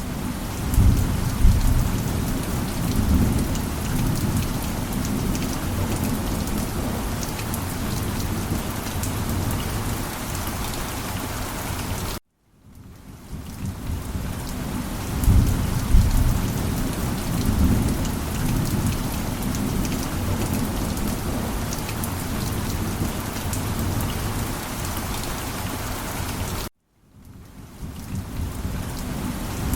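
Steady rain with low rolling rumbles of thunder, swelling a second or so in and again about halfway. The track cuts out abruptly twice and fades back in each time, a looped rain-and-thunder recording.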